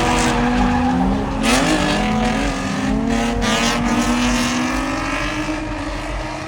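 Car engine revving at high speed, its pitch rising and falling, with tires skidding.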